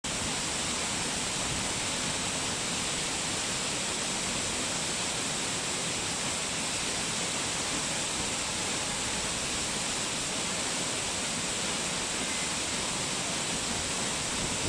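Waterfall: a steady, even rush of falling water with a bright hiss in the highs, unchanging throughout.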